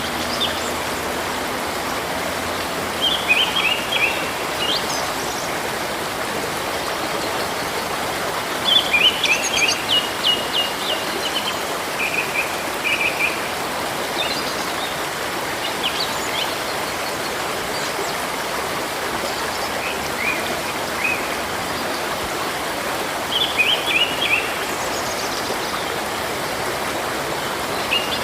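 Steady rushing of a river or stream, with songbirds singing quick chirping phrases over it several times.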